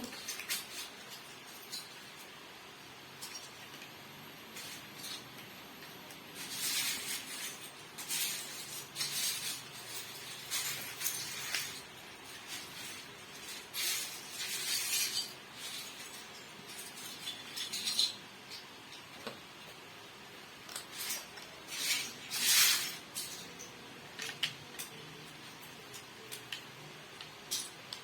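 Plastic Lego bricks clattering and clicking in irregular bursts as pieces are handled.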